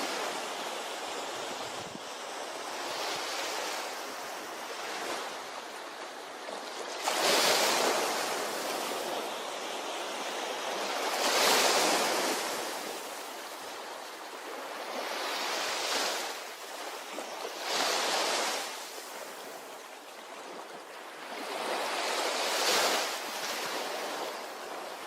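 Ocean waves breaking and washing up a shore, a continuous rush of surf that surges louder five times as bigger waves break.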